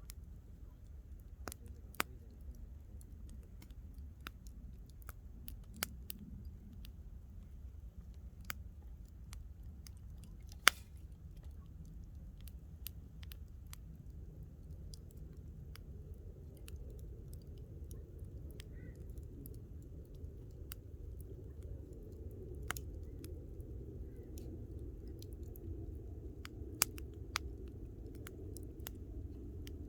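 Wood campfire crackling, with irregular sharp pops and snaps, the loudest about eleven seconds in, over a low steady rumble.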